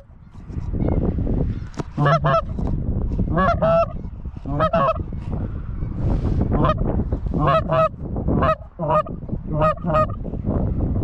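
Goose honks, loud and close, mostly in quick pairs repeated about every second, over a steady low rumble of noise.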